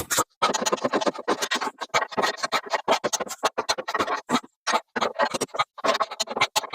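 3/8-inch-drive ratchet with an 11/16 socket, clicking rapidly in short strokes as it tightens bumper mounting nuts, with brief pauses between strokes.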